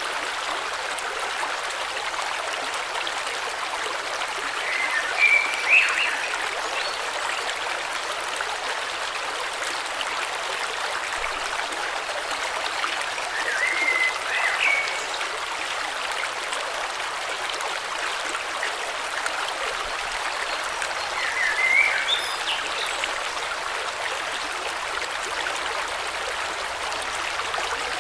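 Steady rushing of a flowing river, with a bird calling three times, short chirping phrases about eight seconds apart.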